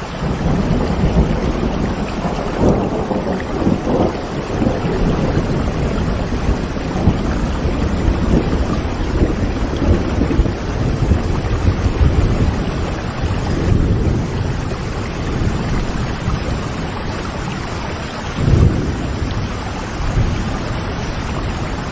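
Steady heavy rain with rolling thunder, the low rumbles swelling and fading several times.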